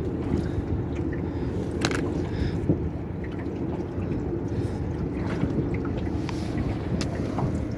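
Honda 20 hp four-stroke outboard motor running steadily on a small aluminum boat, with a few faint light knocks over the hum.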